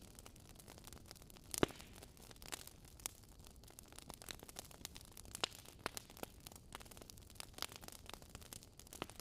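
Fireplace fire crackling: irregular sharp pops and snaps over a soft hiss, with one louder pop about one and a half seconds in.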